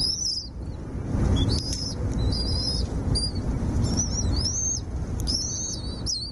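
Small birds chirping: a run of high-pitched, rising and falling calls, about one a second, over a low rumble.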